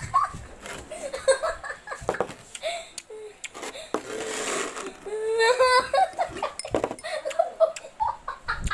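Giggling laughter in bursts, with a long breathy hiss of air about four seconds in, followed by another run of laughing.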